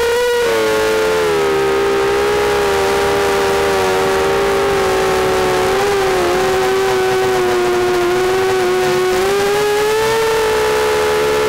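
ZMR 250 racing quadcopter's motors and propellers whining steadily in flight, the pitch shifting with the throttle: it drops about half a second in, wavers briefly around the middle, and rises again near the end.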